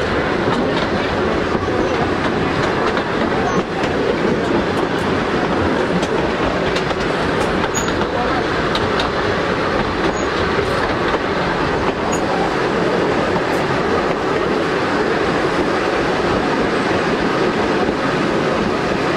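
Steady rumble and rail clatter of a narrow-gauge passenger carriage running along the track behind a steam locomotive, heard from the open carriage window.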